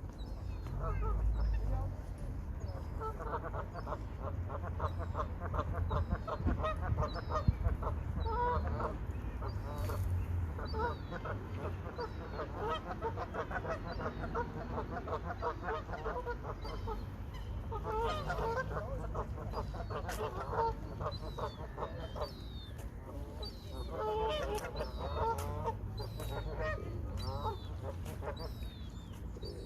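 A flock of waterfowl calling, many birds at once, each call a quick run of repeated notes, rising and falling in busy spells. Thin high chirps from small birds run through it.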